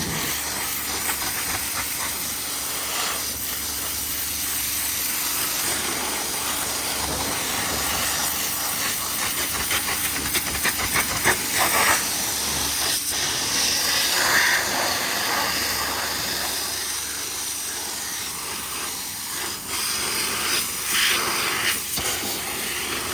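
High-pressure washer jet spraying water onto a truck, a steady hiss that swells and dips as the spray moves over the surfaces.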